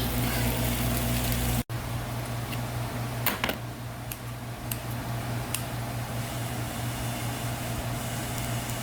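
Steady hum of a kitchen fan or motor, with a few sharp clicks or pops scattered through it; the sound cuts out for an instant about a second and a half in.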